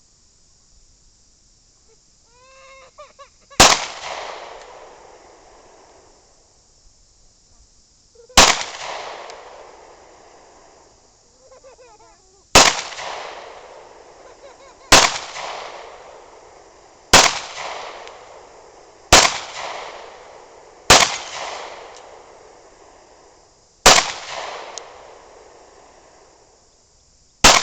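Nine loud, sharp bangs at irregular gaps of two to five seconds, each followed by an echo that dies away over a couple of seconds.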